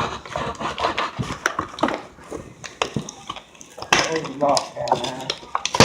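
Cardboard box and plastic packaging being handled and opened: irregular clicks, taps and rustling, with a brief murmur of voice about four seconds in.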